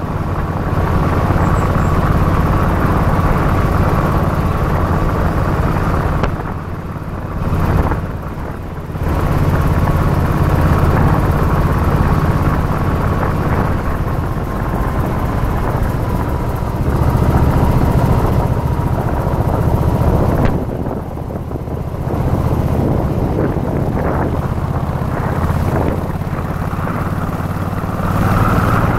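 Yamaha Virago XV1100's air-cooled V-twin engine running steadily under way, mixed with wind and road noise. It eases off briefly a few times, twice close together about a quarter of the way in and once about two-thirds through, before picking up again.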